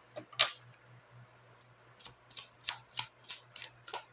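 Lenormand cards being shuffled and handled: one sharp crackle near the start, then a quick run of card flicks and snaps, about three or four a second, through the second half.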